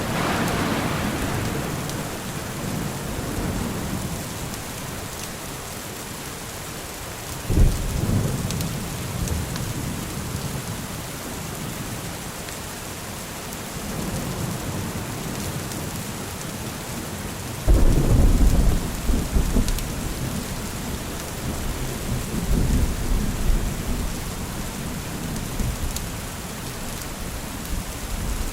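Steady rain with rolls of thunder. A rumble fades away at the start, a sharper clap comes about seven and a half seconds in, and the loudest, longest rumble breaks about eighteen seconds in and slowly dies away.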